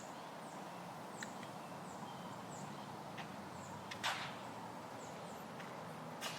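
A bird repeating short, high, thin downslurred chirps about twice a second over a steady outdoor hush, with a few hollow knocks, the loudest about four seconds in.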